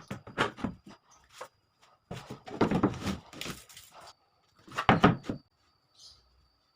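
A run of irregular knocks and scrapes, the loudest about two and a half and five seconds in, over a faint steady high whine.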